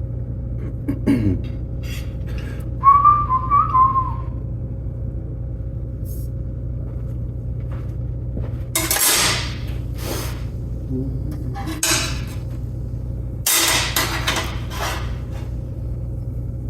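A person whistling a few short wavering notes about three seconds in, over a steady low hum. Later come several clatters and knocks of metal parts being handled, the loudest around nine and fourteen seconds in.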